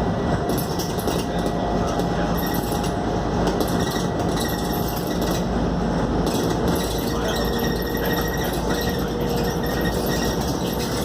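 Inside a Scania K280UD double-decker bus under way: steady engine and road rumble, with a faint whine that moves to a lower pitch about four seconds in and light rattling from the bodywork.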